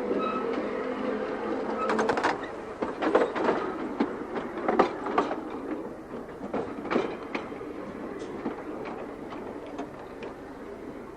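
Electric tram running on rails, with a steady motor hum in the first couple of seconds and then a run of irregular clicks and knocks from the wheels on the track. The sound dies down gradually towards the end.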